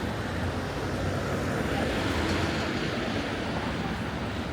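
Steady road traffic noise from a city boulevard, swelling briefly about two seconds in.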